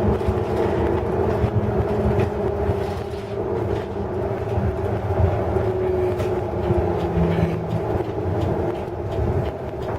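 Hino Blue Ribbon City Hybrid diesel-electric bus running along the road: a steady drone with several held tones over a low, uneven rumble.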